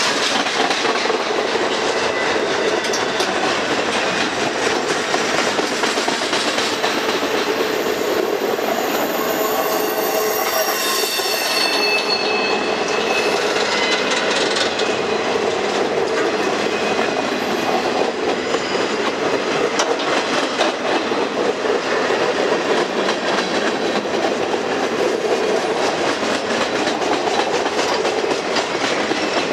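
Freight train of mostly empty flatcars rolling past close by, with a steady rumble and the clack of wheels over the rails. A high, wavering wheel squeal comes in about midway and fades out a few seconds later.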